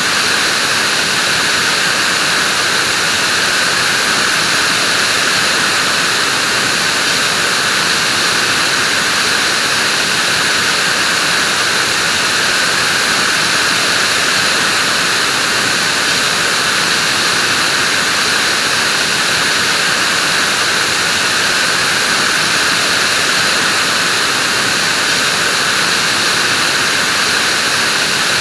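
Vacuum cleaner running steadily, a loud unchanging whoosh of motor and airflow strongest in the upper-middle pitches.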